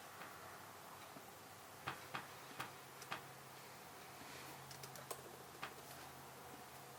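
Faint computer keyboard keystrokes: scattered single taps and short clusters of clicks with pauses between, over a faint steady hum.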